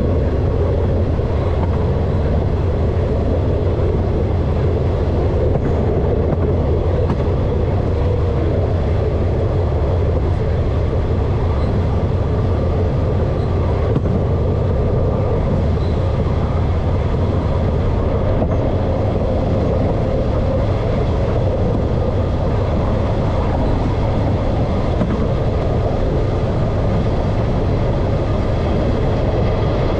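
Diesel locomotive of a coal train running at steady speed, heard from on board: an even, unbroken rumble of engine and wheels on rail.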